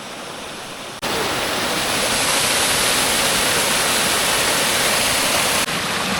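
Waterfall: steady rushing of falling water, faint at first, then abruptly much louder about a second in, easing slightly near the end.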